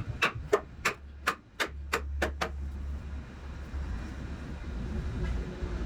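A quick run of about eight hammer knocks, about three a second, stopping about two and a half seconds in, over a low steady hum.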